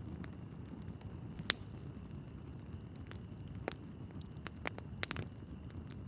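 Logs burning in a wood fireplace: a low, steady rush of flame with sharp crackles and pops from the wood. The loudest pop comes about one and a half seconds in, and a quick cluster of pops comes near the end.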